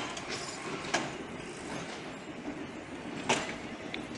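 Metre-gauge passenger coaches rolling slowly during shunting: a steady rumble from the wheels, broken by a few sharp, irregularly spaced clanks as the wheels cross rail joints.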